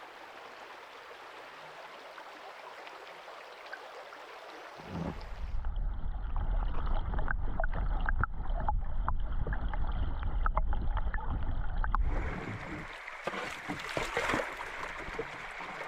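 Running water of a stream riffle, an even hiss. About five seconds in it cuts to a louder low rumble with scattered clicks, and near the end it cuts back to a steadier water hiss.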